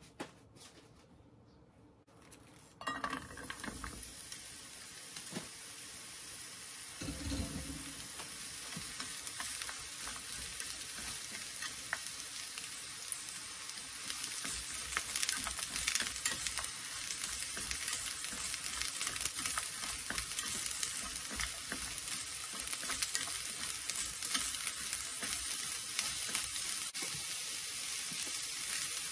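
Sliced bitter melon stir-frying in hot oil in a frying pan. The sizzling starts suddenly about three seconds in and then goes on steadily, with light clicks of chopsticks stirring against the pan.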